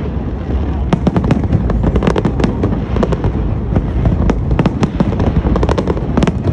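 Aerial fireworks going off in quick, dense succession: a steady barrage of sharp bangs and crackles over a continuous low rumble, with no pause.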